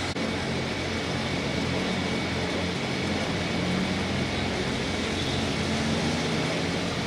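Super Farm class pulling tractor's diesel engine running steadily at low revs, with a high steady tone over it.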